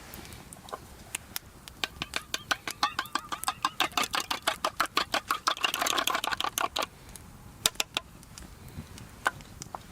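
A cooking utensil striking rapidly and evenly, about five or six sharp taps a second with a slight metallic ring, running for about five seconds and getting denser and louder just before it stops, then a few single taps.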